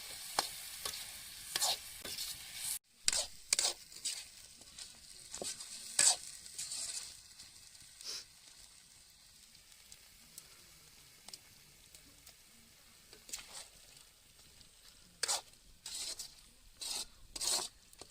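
Chicken sizzling as it is sautéed in a pan with onions and turmeric powder, with a spoon stirring and scraping in short strokes. The scraping is busiest in the first few seconds and again near the end, with a quieter stretch of frying between.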